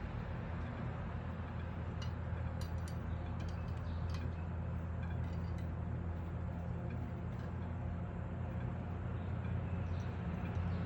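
Battered Evergo ceiling fan running with a steady low motor hum, and a scattering of sharp clicks and ticks in the first half.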